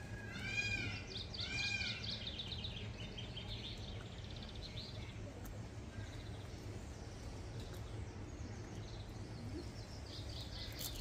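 A bird gives two loud calls about a second apart, each note rising and then falling in pitch, followed by the high, quick twittering of small birds over a steady low outdoor rumble.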